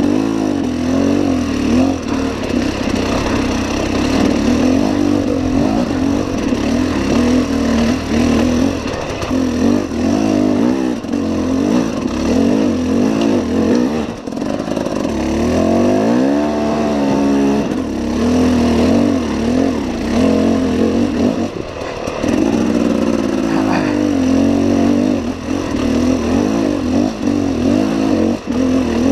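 KTM enduro motorcycle engine ridden over rough ground, its pitch rising and falling constantly with the throttle. About halfway through it revs up in one longer sweep and drops back down.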